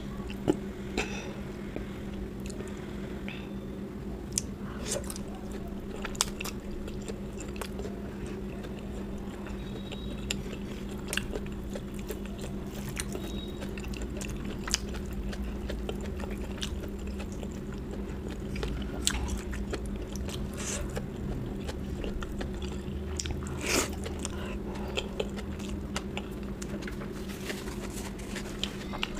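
A person eating close to the microphone: chewing and biting food, with irregular sharp mouth clicks, over a steady low hum.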